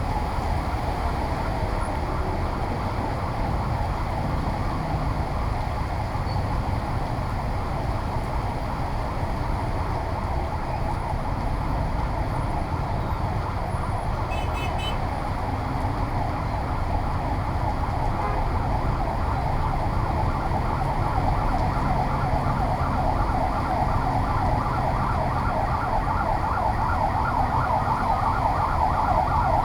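An emergency vehicle's siren in a fast warbling yelp, growing louder over the second half, over a steady low rumble of street noise.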